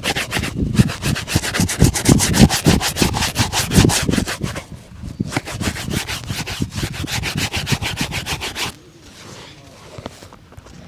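Leather shoe being buffed in a shoe shine, with fast, even back-and-forth rubbing strokes. The strokes stop about nine seconds in, leaving only faint, softer rubbing.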